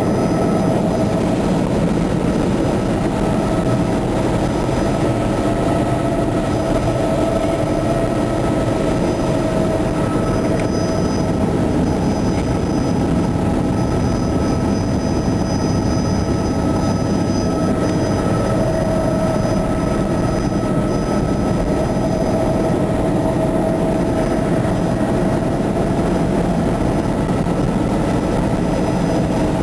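Helicopter in flight heard from inside the cabin: a steady, loud drone of engine and rotor with constant whining tones over it.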